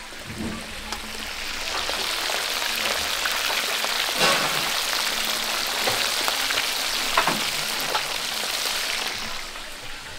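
Food frying in a pot of hot oil: a dense sizzle that swells up over the first couple of seconds and dies down near the end, with a couple of knocks partway through.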